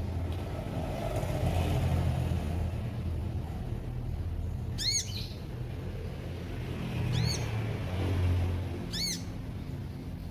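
Three short, arched bird chirps, each rising then falling in pitch, about 5, 7 and 9 seconds in, over a steady low rumble like distant traffic.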